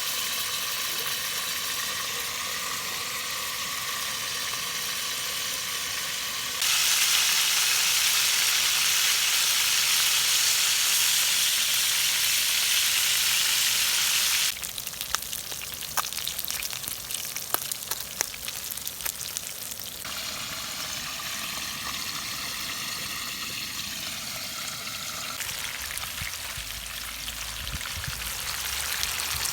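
Steady hiss of running or splashing water in several sections that change abruptly. The loudest section comes in the first half, and a middle stretch carries scattered sharp clicks or small splashes.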